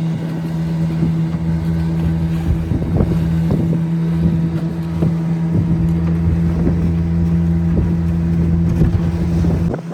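A fishing boat's engine running steadily under way, a constant low hum, with irregular knocks over it. The sound cuts off suddenly near the end.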